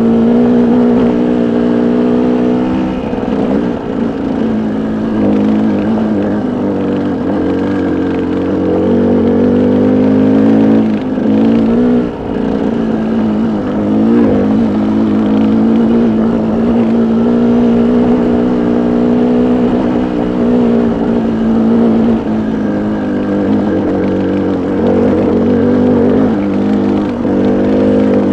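Pickup truck's engine running steadily at low speed under load in four-wheel drive on a rough, rocky road. Its pitch wavers, with brief dips a few times.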